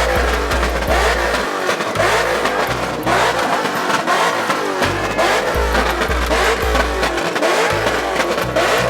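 Car engines revving, with rising and falling pitch, over music with a deep bass line that steps from note to note.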